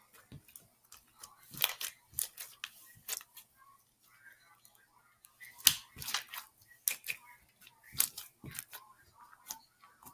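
Irregular sharp clicks and taps, a dozen or so, with quieter scraping between them: containers and utensils being handled while mixing slime.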